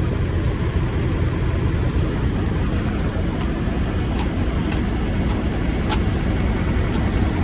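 Semi-truck diesel engine running with a steady low rumble as the empty truck, stuck in snow, tries to pull free. The drive wheels are not getting traction because there is no weight on them.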